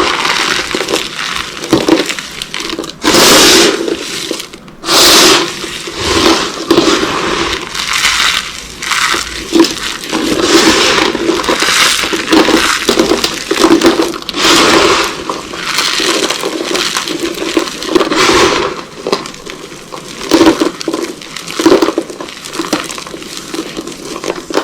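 Dry soap boxes dusted with corn starch being crushed, crunching and crackling in a run of uneven bursts, several loud crunches standing out.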